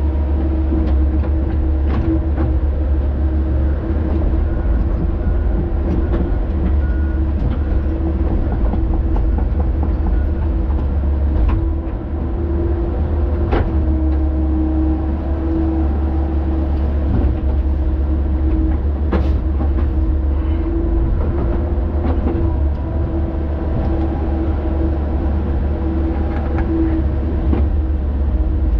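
Earthmoving machine's diesel engine running steadily with a low drone, broken by a few sharp clanks and knocks.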